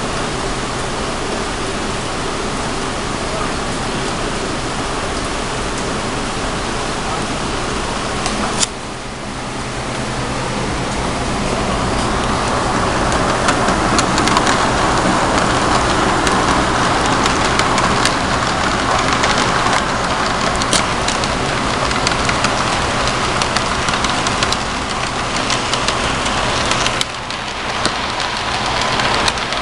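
Model train running on its track: a steady rushing rattle of wheels on the rails with a low motor hum, breaking off abruptly twice where the sound jumps.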